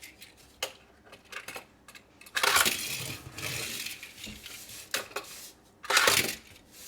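Small toy cars clattering against a plastic toy truck carry case: scattered light clicks, with two louder clatters about two and a half seconds in and near the end.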